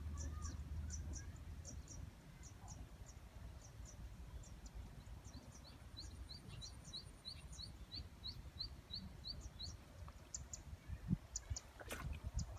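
Small birds chirping: short high chirps throughout, and in the middle a run of about a dozen short rising notes, about three a second. A low rumble at the start and a sharp knock near the end.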